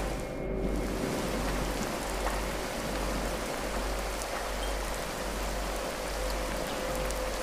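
Steady recorded rain, an even hiss of falling drops, layered with faint held tones from the track's binaural-beat frequencies.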